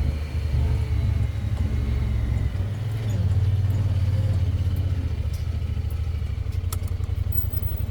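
Motor vehicle engine and road rumble while driving, a steady low drone that shifts down in pitch about two and a half seconds in, as with a gear change.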